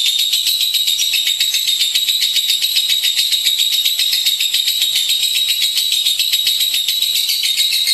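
Lovebird singing a long, unbroken, high-pitched chattering trill of very rapid, evenly repeated notes: the continuous 'ngekek' song that lovebird keepers prize.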